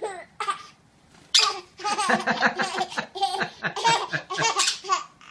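High-pitched laughing squeals in short, chopped bursts: two brief ones at the start, then a dense run from about a second and a half in until near the end.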